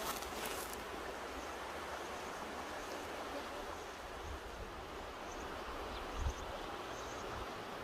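Mountain river rushing steadily over rocks, with a gust of wind thumping on the microphone about six seconds in.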